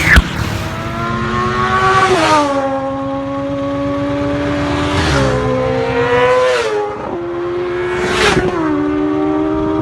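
Superbike engine pulling hard under acceleration, its pitch climbing and then dropping sharply about four times as it shifts up through the gears.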